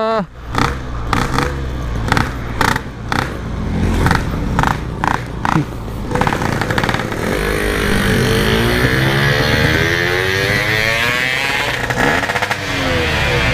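Yamaha RX-King single-cylinder two-stroke motorcycle engine running roughly and failing to pull. It gives a string of short, uneven bursts for the first five seconds or so, then revs up and back down. The rider later traces the weak pull to a standard spark plug that can't cope with the ignition.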